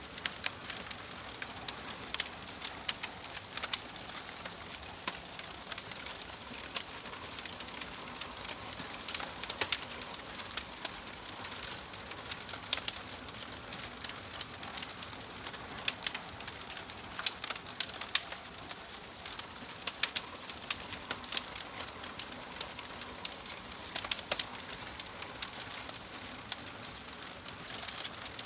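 Wood fire in a fireplace crackling, with frequent sharp irregular pops over a steady soft hiss.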